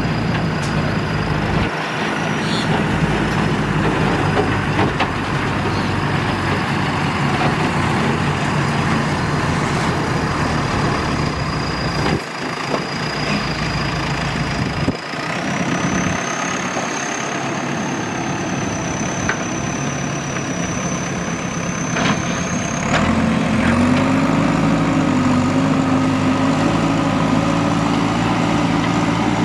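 Diesel engines of a JCB 3DX backhoe loader and dump trucks running steadily. A thin high whine steps up in pitch about halfway through, a few brief knocks occur, and a deeper steady engine note comes in for the last quarter.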